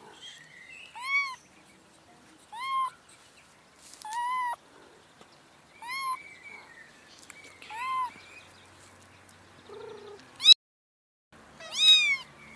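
Domestic cat meowing over and over, about seven meows spaced every second and a half to two seconds, each call rising and falling in pitch. The loudest, sharpest meow comes near the end, cut off by a brief silence.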